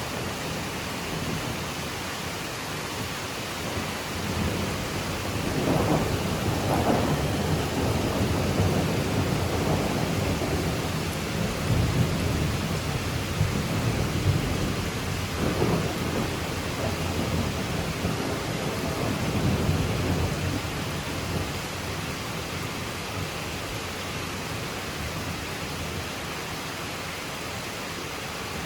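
Steady rain falling on foliage, an even hiss, with a long roll of thunder rumbling in about five seconds in and dying away after about twenty seconds.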